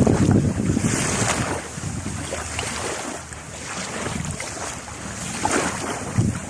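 Sea waves washing ashore, with wind buffeting the microphone. The loudest surge comes right at the start and eases off after a second or so, with smaller swells following.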